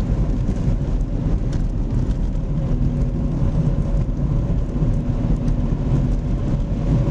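Steady engine and road rumble of a car driving, heard from inside the cabin, with a faint steady hum.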